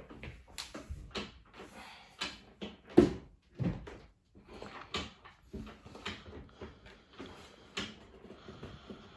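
Irregular clicks, knocks and scraping from handling a built-in dishwasher and its wooden kitchen cabinet, with the sharpest knock about three seconds in and another just after it.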